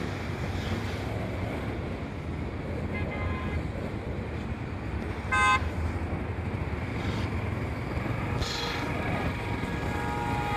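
Steady engine and wind rumble of a motorcycle riding in traffic. Just after five seconds in, a vehicle horn gives one short toot, the loudest sound.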